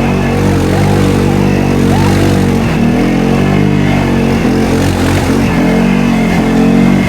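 Off-road vehicle engine running loud and revving, its pitch rising and falling several times.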